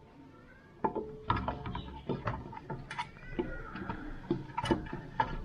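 Irregular metallic clinks and knocks of bolts, tools and the scooter's CVT side cover being handled during refitting.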